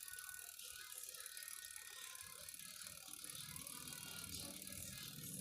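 Faint, rapid mechanical ticking from a Sharp twin-tub washing machine's spin dryer, with a low hum joining about three seconds in. The spin tub stays still.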